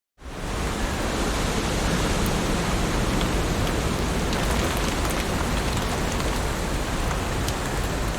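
Heavy rain falling steadily, a dense hiss with scattered sharp drop ticks on top. It starts abruptly out of silence just after the beginning.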